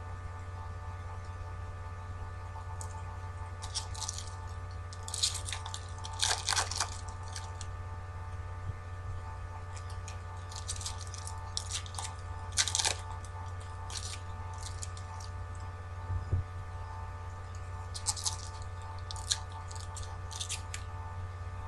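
Trading-card pack wrappers crinkling and tearing as packs are opened and handled, in scattered bursts over a steady electrical hum.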